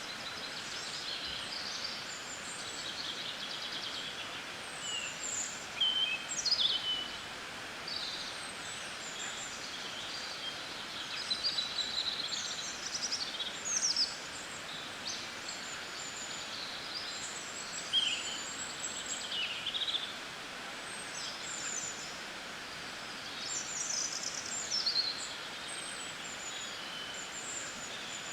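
Several small birds chirping and twittering: many short high chirps and quick sweeping notes, some overlapping, over a steady background hiss.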